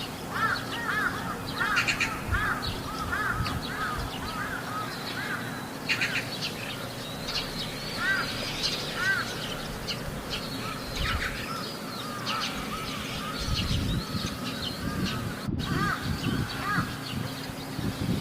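Crows cawing over and over in short arched calls, rapid at first and then more scattered, with higher chirps mixed in. A low rumble comes in about two thirds of the way through.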